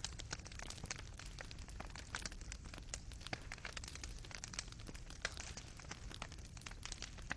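Fireplace fire crackling, with burning coals popping in quick, irregular snaps over a low, steady rumble.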